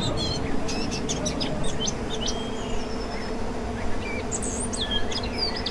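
Birds chirping and whistling in short, high-pitched calls, clustered near the start and again about four seconds in, over a steady low background hum.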